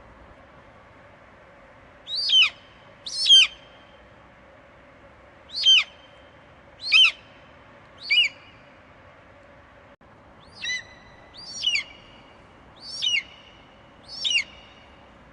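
Eagle screeching: nine short, shrill calls, each dropping sharply in pitch, coming roughly a second apart in two loose runs. Faint steady background hiss and hum sit beneath them.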